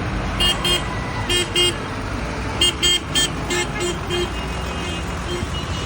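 A vehicle horn tooting in short quick pairs and runs, about a dozen toots in all, over the steady low rumble of engines.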